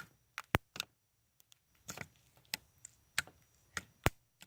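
Slime being pressed and poked by hand, giving sharp sticky clicks and pops at irregular intervals, about ten in all.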